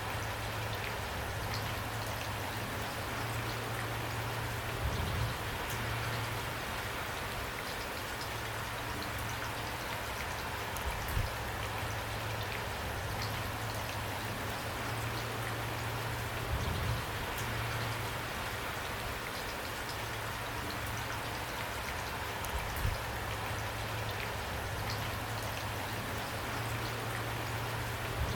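Steady rain falling, with drops tapping on a surface and a low hum beneath. A few louder drips or thuds stand out every several seconds.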